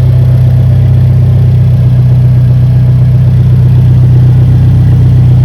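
Alfa Romeo 4C Spider's turbocharged 1.75-litre four-cylinder engine idling steadily while warming up after a cold start.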